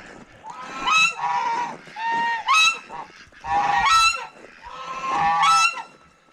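Geese honking repeatedly, a loud call about every second, with several birds' calls overlapping.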